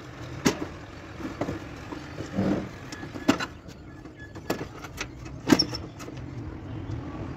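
A motor vehicle's low, steady running rumble, with several sharp knocks or clicks at irregular intervals.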